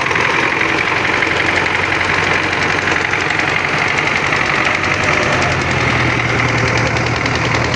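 Old tractor's engine running steadily at constant speed, its low hum growing a little stronger about five seconds in.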